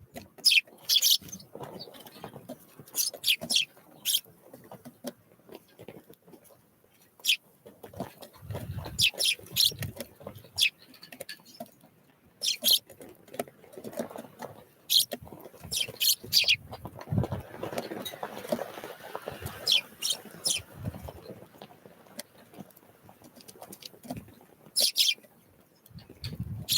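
Small wild songbirds giving short, high call notes here and there, with soft pattering and rustling sounds between them.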